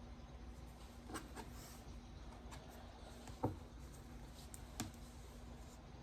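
Faint handling sounds of quilt pieces being moved and checked on a table: a few soft taps and rustles, the clearest about three and a half seconds in, over a faint steady hum.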